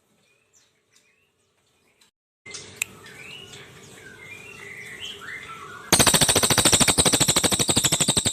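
Crested jay (brown cililin) giving its loud, rapid, evenly pulsed rattle, which begins about six seconds in and cuts off abruptly at the end. Before it come softer chirps and whistled bird notes over a steady background noise.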